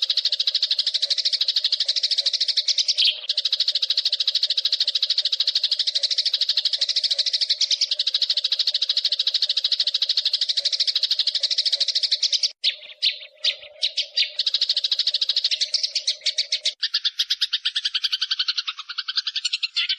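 Eurasian tree sparrow giving its fast rolling fighting chatter, a continuous rapid pulsed trill. It breaks up briefly past the middle, and after about 17 s it carries on lower and fuller in pitch.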